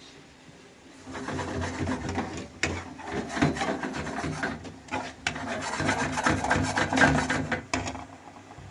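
Rough, rasping scraping made of many quick strokes, starting about a second in and stopping shortly before the end.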